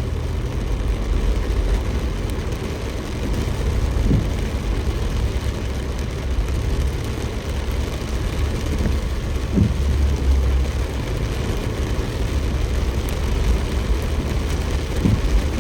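Steady rain with a heavy low rumble, and a few short knocks about four, nine and a half and fifteen seconds in.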